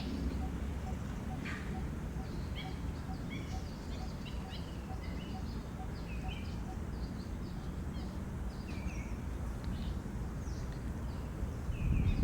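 Birds chirping in short, scattered calls, some dipping in pitch, over a steady low outdoor background noise.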